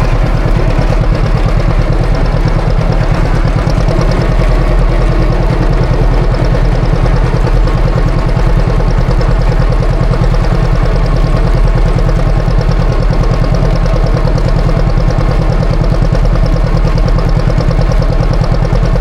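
Classic John Deere tractor engine running steadily in fourth gear while pushing snow with a blade, with a dense, even pulsing.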